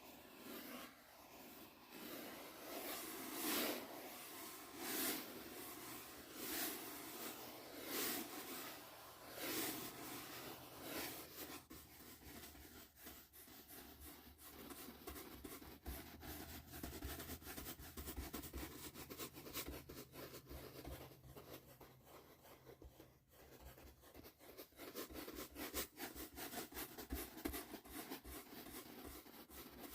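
Soft brush strokes sweeping and rubbing, slow and evenly spaced at first, about one every one and a half seconds, then turning into quicker, scratchier strokes from about a third of the way in.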